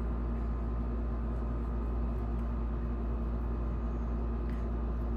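Steady low background hum with a couple of faint constant tones, unchanging throughout.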